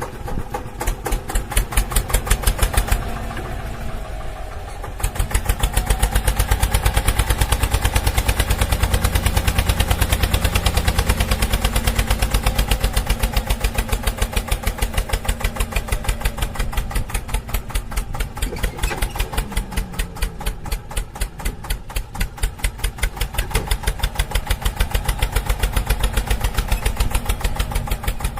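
Mini tractor's small engine running at a steady, fast chugging idle. It drops quieter for about two seconds early on, then picks back up to a louder, even beat.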